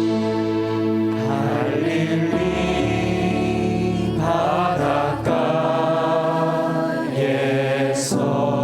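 Praise band playing slow, sustained keyboard and synth chords with bass, the chords changing every second or two.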